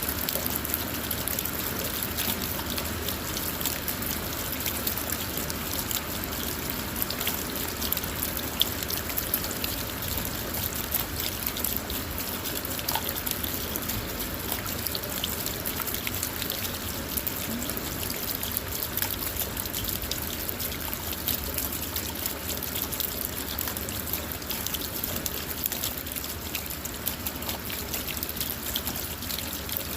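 Steady rain falling on a car, heard from inside, with many small drop ticks on the roof and glass over a constant wash of water.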